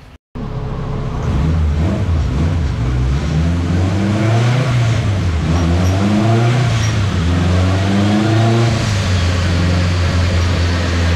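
Turbocharged Honda K-series four-cylinder in an EG Civic hatchback running on a chassis dyno, its revs rising and falling several times, then holding steady near the end.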